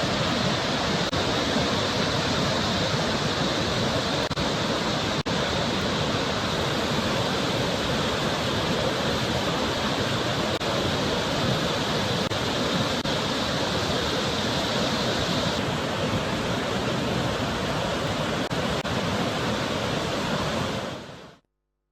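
Waterfall in full flow after heavy rains, a steady rush of falling water; it fades out quickly near the end.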